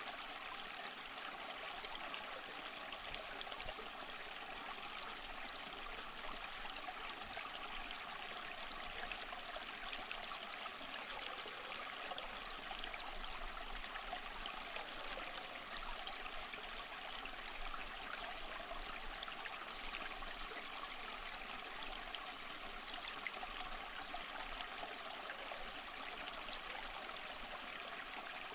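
Steady rush of falling, splashing water from a waterfall, an even hiss with no breaks.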